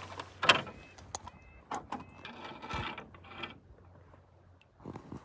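Solo canoe paddling, with short knocks and clicks of the paddle against the hull. A few brief calls from waterfowl being flushed by the canoe come about a second in.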